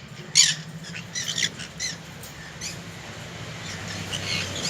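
Yellow-sided conure giving a handful of short, harsh squawks, the loudest about half a second in, over a steady low hum.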